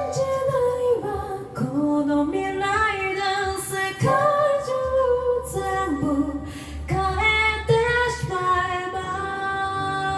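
A cappella group singing in close harmony, a female lead voice over sustained backing voices, with a low bass voice coming in about five seconds in.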